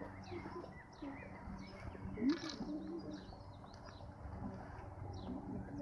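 Songbirds singing, with short high chirps repeating throughout. A single sharp knock comes a little after two seconds in.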